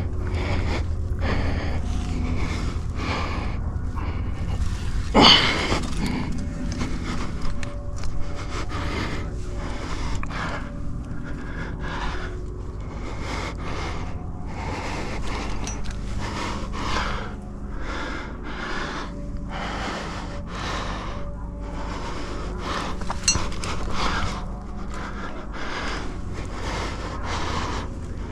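Climber breathing hard in quick, repeated breaths while working up a sandstone chimney, over a steady low rumble, with a louder knock or scrape about five seconds in.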